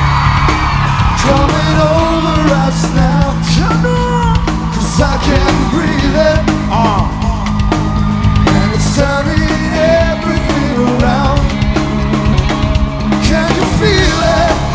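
Live rock/soul band playing: drums, bass, guitars and keyboards, with singing over it.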